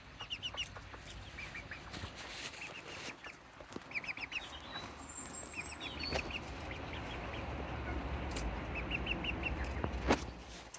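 Serama bantam chickens clucking, in repeated runs of four or five short, quick calls. A low rumble builds in the second half, and a single sharp knock comes near the end.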